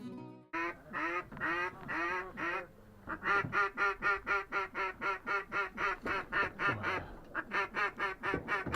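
Duck quacking: a few spaced quacks, then a long, fast, evenly paced run of quacks at about four a second, with a short break near seven seconds.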